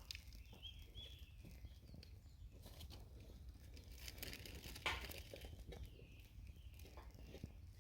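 Faint rustling and scattered clicks, with one sharper snap about five seconds in, while small birds chirp in the background.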